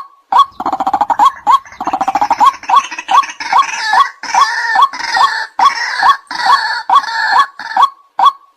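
White-breasted waterhen calls: a steady series of short, sharp notes, about two a second. From about half a second in until near the end, a louder, raucous, rapidly pulsing croaking chorus rises over them.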